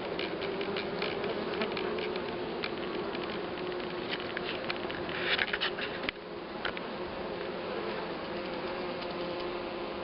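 Honeybee colony humming steadily, a dense buzz of many bees, with scattered sharp clicks over it. The clicks crowd together a little past five seconds, and the sound dips briefly at about six seconds.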